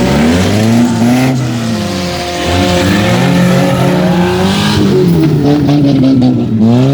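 Several demolition derby cars' engines revving up and down at once, their pitches rising and falling against each other.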